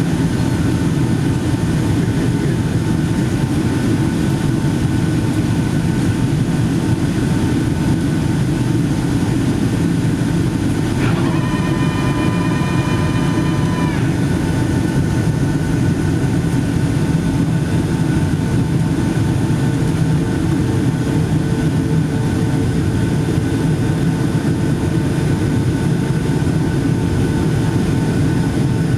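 Steady cabin noise of a Boeing 757-200 airliner in flight, the engines and airflow making an even, low noise. A held tone with several pitches sounds for about three seconds near the middle.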